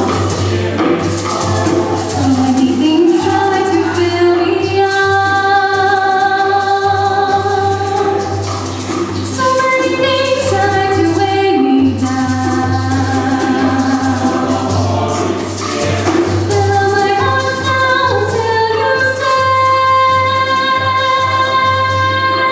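High school chamber choir singing, with sustained chords and a steady percussion beat of short strokes.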